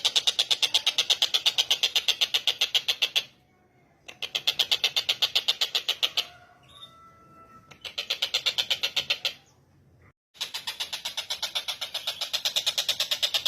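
Tengkek buto (collared kingfisher) calling in long, rapid series of harsh, evenly spaced notes, about ten a second. The calls come in four bouts with short pauses between them, and faint thin whistles sound in one of the pauses.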